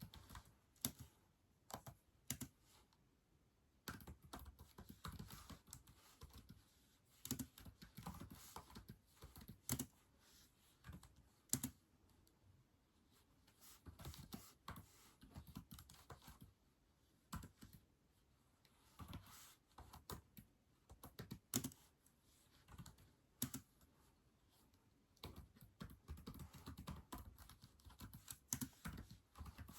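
Keyboard typing in irregular bursts of rapid key clicks, separated by short pauses, with a few louder single key strikes.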